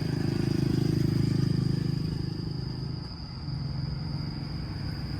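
Steady engine rumble that swells in the first two seconds and eases about three seconds in, with a thin high steady whine above it.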